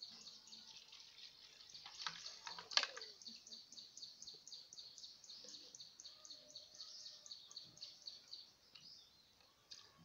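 A bird chirping steadily, a short high chirp about four times a second. About two seconds in, vaccine-mixed water is poured into a plastic chick drinker, ending in one sharp plastic knock, the loudest sound.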